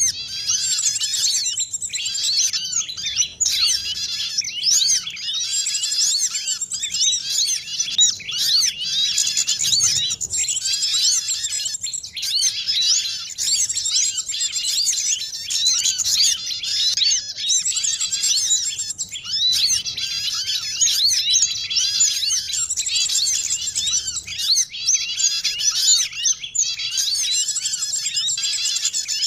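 Dense, unbroken chorus of many small songbirds chirping and twittering at once, short quick notes overlapping throughout: a mixed small-bird lure call (suara pikat) used to draw small birds in.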